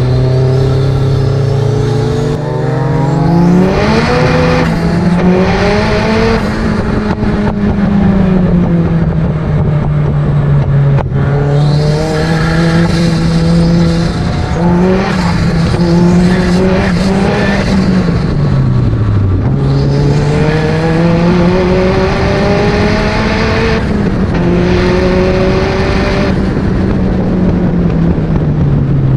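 Turbocharged MEV Exocet kit car's engine heard onboard, being driven hard on track: the revs climb and fall repeatedly through the gear changes, dropping away sharply twice under braking, once near the middle and again at the end.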